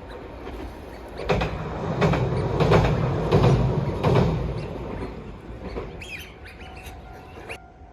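A train passing close by: a low rumble, with its wheels clacking over rail joints about every 0.7 s, rising to a peak in the middle and fading. It cuts off suddenly near the end.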